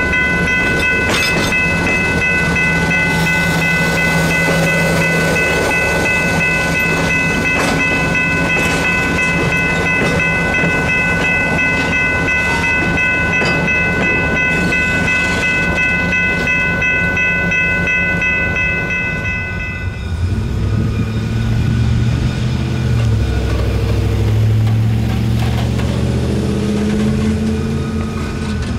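Passenger railcars rolling past with a steady rumble of wheels on rail and a steady high ringing tone over it. About 20 seconds in the tone stops abruptly, and a low diesel locomotive engine rumble takes over, wavering in pitch.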